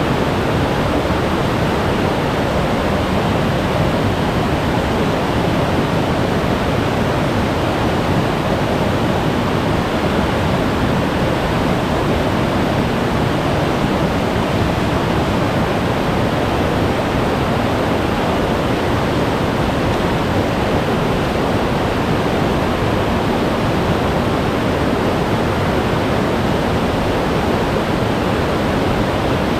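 Glacier-fed mountain stream rushing steadily over rocks, a loud, even roar of meltwater with no breaks.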